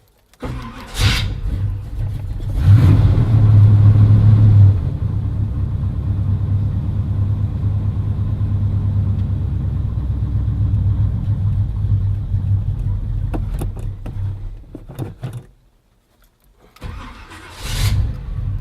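Carbureted Chevy small-block V8, a low-compression truck engine with closed-chamber heads, being cranked on a cold start with the choke set by hand. It catches after about two seconds of cranking, runs fast and loud for two seconds, then settles to a steady cold idle. About fifteen seconds in it cuts out, and near the end it is cranked and catches again.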